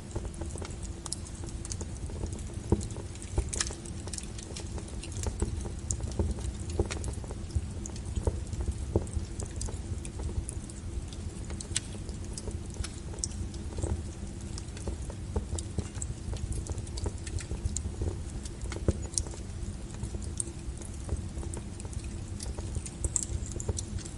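Wood fire burning with a steady low rumble of flames and irregular sharp crackles and pops from the burning logs.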